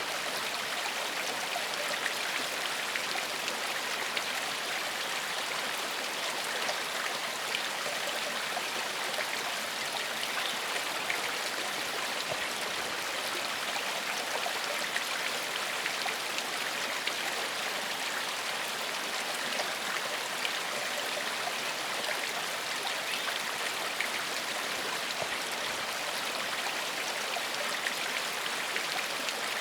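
Gentle forest stream flowing: a steady, even rush of running water.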